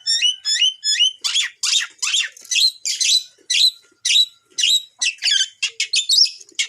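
Long-tailed shrike (cendet) singing its challenge song: a string of short repeated calls, a few clear rising notes at first, then harsher scratchy notes about two a second that quicken near the end.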